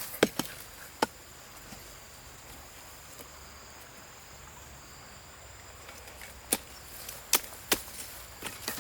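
Sharp knocks of a hand tool striking wood: a quick few in the first second, then a pause, then four more spaced strikes near the end.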